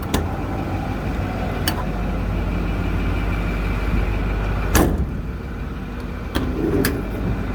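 2008 Ford bucket truck's engine idling steadily while warming up, with a few sharp knocks or clicks scattered through.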